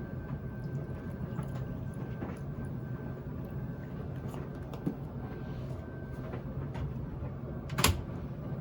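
Steady low hum of a running laundry machine, with light handling knocks and one sharp clack near the end.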